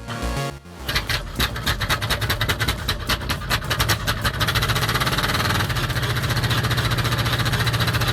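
A 1953 Caterpillar D8 bulldozer's diesel engine starting up: uneven firing knocks that quicken and settle, about four and a half seconds in, into a fast, steady, even beat.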